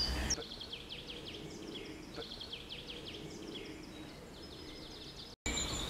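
Faint outdoor ambience with a small bird singing in two phrases of rapid high trills. The sound drops out completely for a moment near the end.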